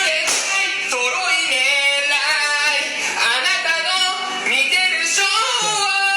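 A song: a voice singing a melody over music.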